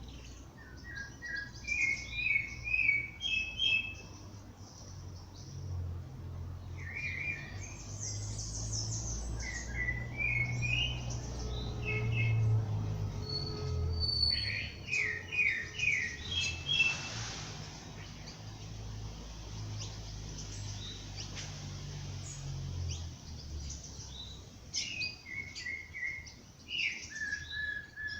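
Songbirds in a dawn chorus, singing short repeated phrases of quick high chirps in bursts, over a low steady rumble.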